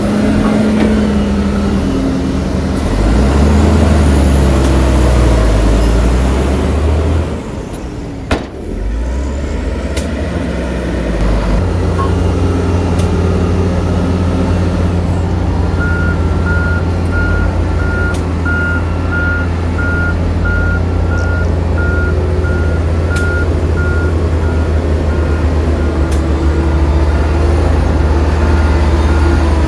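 Heavy diesel earthmoving machinery and a dump truck working: the engine revs up and down under load, eases off briefly with a sharp click, then runs steadily. From about halfway a reversing alarm beeps about once a second.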